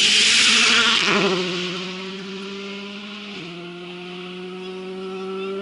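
A rally car passes close by at speed: a loud rush of engine and gravel spray in the first second, then the engine note drops as the car goes past and holds a steady high-revving tone while fading away, with a short drop in pitch about three and a half seconds in, like an upshift.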